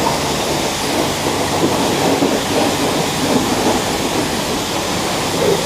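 Self-serve car wash spray wand spraying clear coat protectant onto a motorcycle: a loud, steady hiss of pressurised spray.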